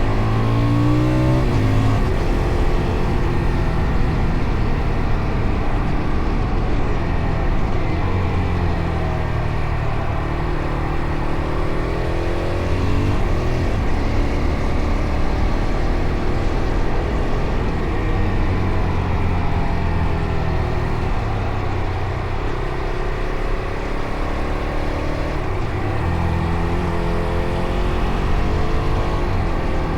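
Fantic Caballero Rally 500's single-cylinder engine pulling under way, its pitch climbing and falling several times as the revs rise and drop through the gears.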